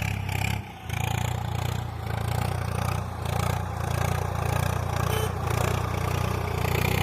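An engine running steadily with a low rumble, dipping briefly just under a second in.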